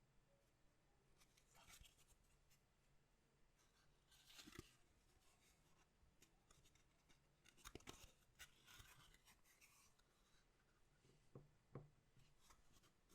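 Faint rustling and light clicks of collectible card packs and cards being handled, in a few short bursts.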